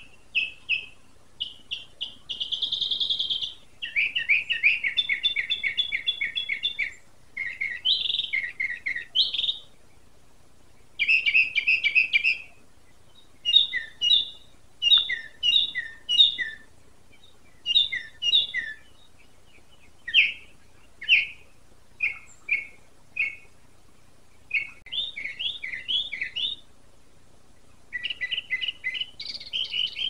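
A songbird singing a long, varied song of chirps, whistles and buzzy trills, with many phrases repeated several times before it switches to the next, and short pauses between.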